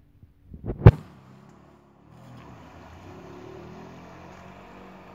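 A loud thump about a second in, then a Kawasaki stand-up jet ski's engine running steadily from about two seconds in.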